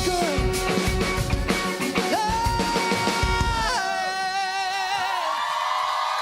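Live pop-rock band ending a song: drums and instruments under a singer holding a long high note. About four seconds in the drums stop and a last sung note wavers, and near the end the audience starts clapping and cheering.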